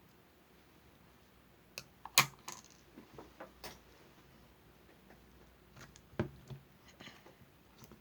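Scattered sharp clicks and light taps of small hard objects being handled, in two short clusters, the loudest click about two seconds in.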